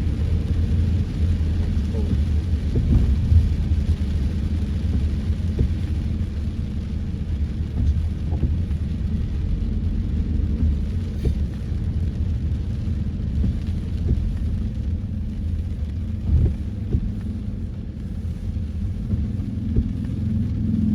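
A car on the move, heard as a steady low rumble of engine and road noise, with a few light knocks.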